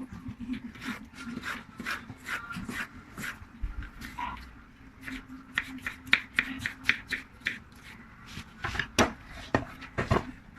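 Kitchen knife tapping, scraping and knocking irregularly on a wooden cutting board as tomatoes are cut and peeled, with the sharpest knocks near the end. A low steady hum runs underneath.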